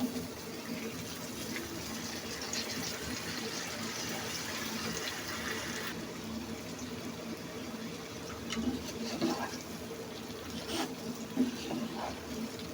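Curry pan sizzling with a steady watery hiss as chopped taro stolons go in, with several light knocks in the second half.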